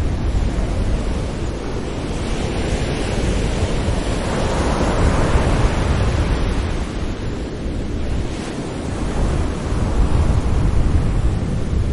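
Sea waves breaking gently on a shore, a steady low rumble with a wash of surf that swells over several seconds and eases off, then builds again near the end. Wind buffets the microphone throughout.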